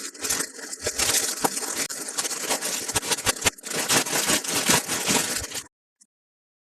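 Hands handling toy packaging: a dense crackling and scraping run through with many small clicks and knocks, cut off abruptly about a second before the end.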